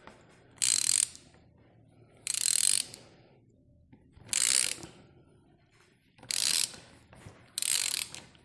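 Wrench and 11/16 socket turning the screw of a crankshaft gear puller: five short rasping strokes, one about every one and a half to two seconds, as the puller is tightened to draw the helical gear off a motorcycle crankshaft.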